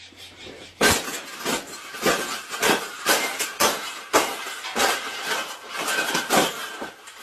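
Wire bird cage clanking and rattling as it is handled and fitted together: an irregular series of sharp metallic knocks and clinks, about one to two a second.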